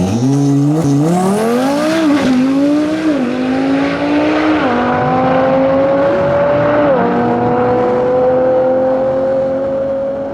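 Twin-turbocharged Audi R8 V10 on a drag pass: revs bounce briefly, then the engine pulls hard at full throttle, its pitch climbing through each gear with four quick upshifts.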